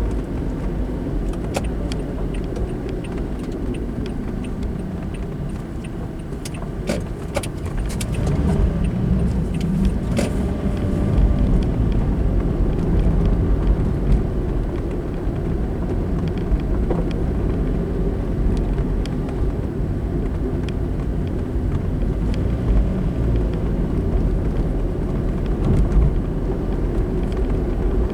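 A car driving on a road: steady engine and tyre rumble that grows louder about eight seconds in, with a few small clicks and rattles in the first ten seconds.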